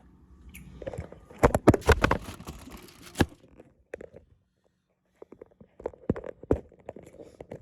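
Handling noise in a kitchen: a quick cluster of sharp knocks and clatters, then after a short silence, scattered lighter clicks and taps.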